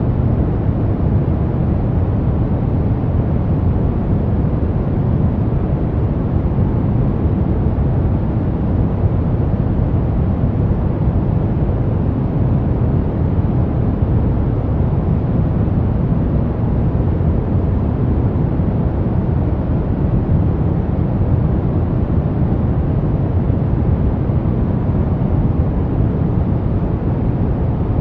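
Brown noise: a steady, unchanging deep hiss, heaviest in the low end, with no events or rhythm.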